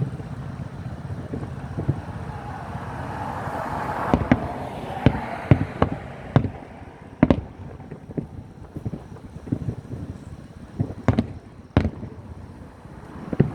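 Fireworks show: a hiss that builds over a few seconds, then a string of sharp bangs from bursting shells, thickest in the middle, with a couple more near the end.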